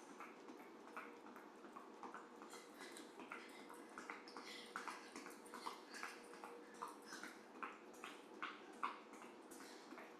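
Faint, quick footfalls of running shoes landing and scuffing on the floor during a light hopping cardio move, several irregular taps a second, over a steady faint hum.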